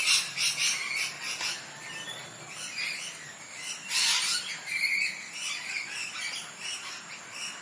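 Bird calls, chirps and squawks, over a steady hiss, with a louder burst about four seconds in.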